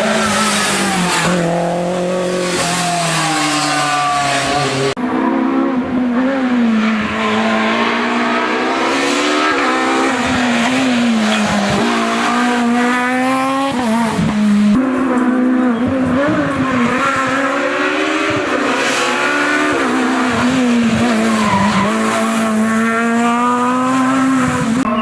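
Rally cars at full effort on a mountain special stage, engines revving up and dropping back again and again through the gear changes. The sound changes abruptly twice, about five and fifteen seconds in, as one car gives way to the next.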